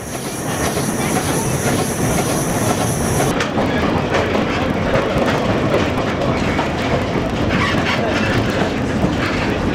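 Train passing close by on the rails, its wheels clattering over the rail joints, growing louder over the first second and then steady. A high steady hiss runs over it and cuts off suddenly about three seconds in.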